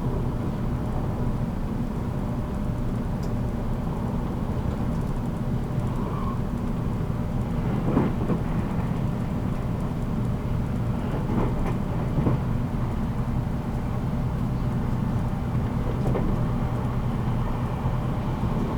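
Running noise heard inside a JR Kyushu 783 series limited-express motor car at speed: a steady low rumble of wheels on rail and running gear, with a few sharper knocks about eight, eleven to twelve, and sixteen seconds in.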